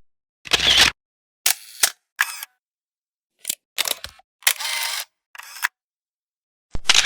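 A string of about seven separate camera shutter clicks and snaps, each a fraction of a second, with short silences between them. Some have a sharp click at the start and again at the end, and one midway lasts longer, about half a second.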